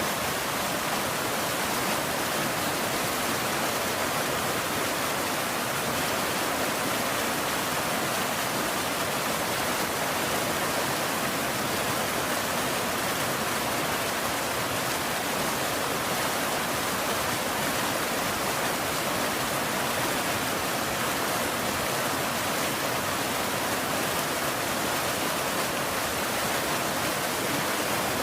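Rain falling steadily: an even, unbroken hiss with no thunder and no single drops standing out.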